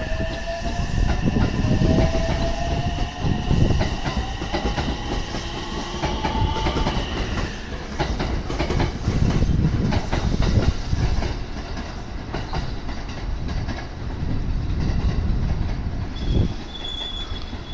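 Kanku/Kishuji Rapid electric train pulling away from the station: its traction motors whine, rising in pitch as it accelerates over the first several seconds, while the wheels clack over rail joints. The clacking thins out and fades as the last cars leave.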